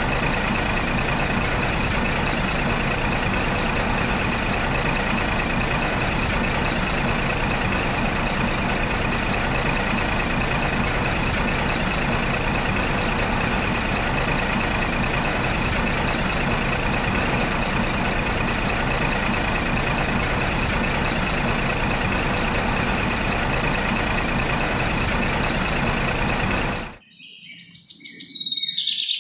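A motor running at a steady pitch with a constant high whine, cutting off suddenly near the end. Short high chirps follow just after it stops.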